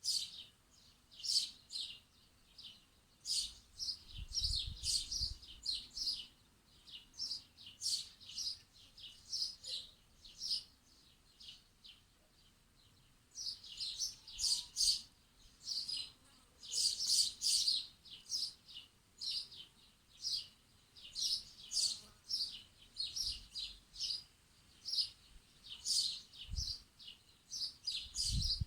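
Small birds chirping, many quick high calls overlapping, with a lull of a few seconds a little before halfway. A brief low rumble comes twice, about a fifth of the way in and near the end.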